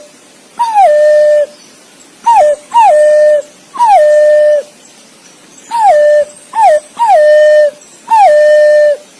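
Green pigeon (punai) calling: a series of about eight clear whistled notes. Each note drops quickly in pitch and then holds a steady tone, some short, most drawn out for up to a second, in loose groups.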